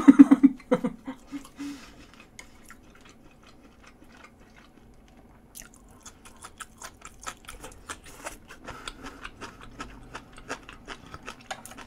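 Close-miked chewing of grilled asparagus: a quick run of moist crunches and mouth clicks that starts about five and a half seconds in, after a quieter stretch.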